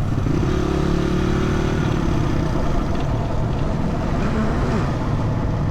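Dirt bike engine running steadily under a rider, with wind noise on a helmet-mounted microphone.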